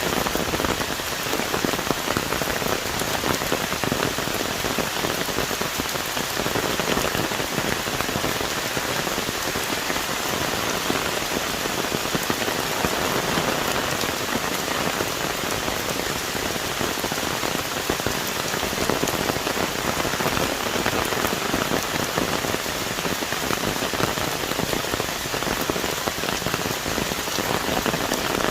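Heavy tropical rain pouring onto the forest canopy, a steady dense hiss of countless drops striking leaves.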